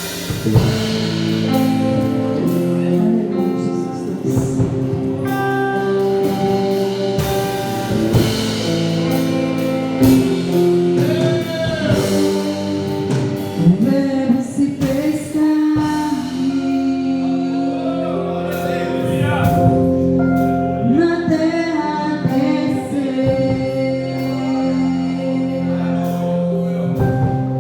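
Live gospel worship music: a band with drums playing while a singer sings.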